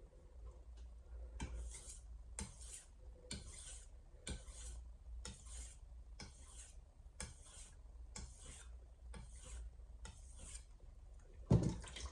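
VG10 stainless santoku blade drawn across a Shapton Glass whetstone in light deburring strokes, about ten even scrapes roughly one a second. A single low knock comes near the end.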